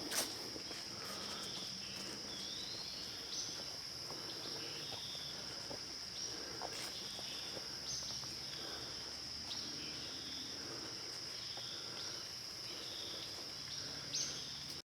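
Woodland chorus: a steady high-pitched insect trill runs throughout, with scattered short bird chirps and calls over it, including one rising call a couple of seconds in. A single brief knock sounds at the very start.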